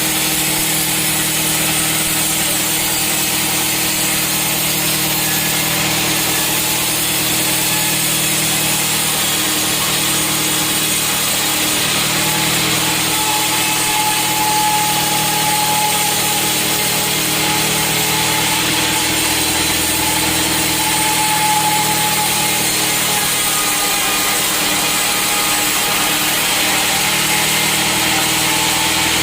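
Sawmill saw running and cutting through a teak log: a steady loud cutting noise over the constant hum of the mill's motor, with a thin higher whine for several seconds midway.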